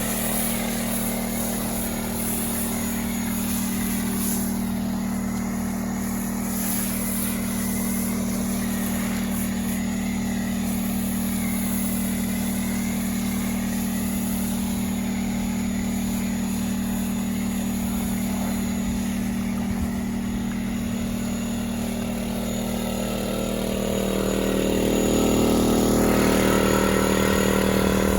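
Small gasoline engine of a pressure washer running steadily under the washing, growing louder near the end.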